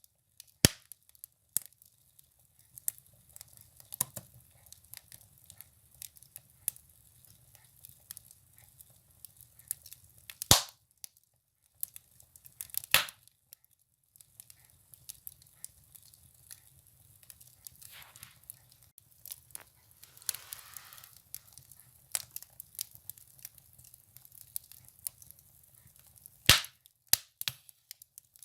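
Firewood burning in a stove, crackling with irregular snaps and pops, a few of them sharp and loud. A faint low hum runs underneath, and a brief soft hiss comes about twenty seconds in.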